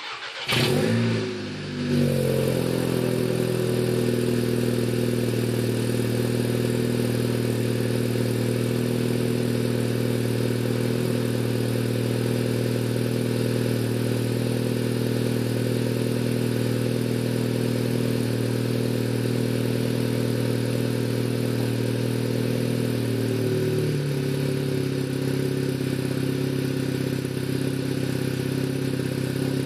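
Car engine starting through a 76 mm exhaust with one MG Race muffler and one resonator. It catches within about two seconds, then idles steadily. The idle steps down slightly about 24 seconds in.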